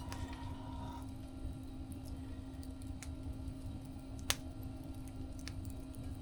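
Campfire crackling: scattered small pops and one sharp snap a little over four seconds in, over a steady low rumble and a faint steady hum.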